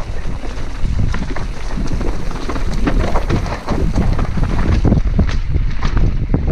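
Heavy wind buffeting the microphone of a mountain bike rider's camera at speed downhill, with an irregular run of clicks and knocks from the bike rattling over rough trail.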